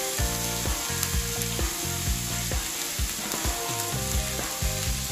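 Corned beef and sweet corn sizzling as they fry in a pot, a steady hiss. Under it runs background music with a steady beat and a bass line.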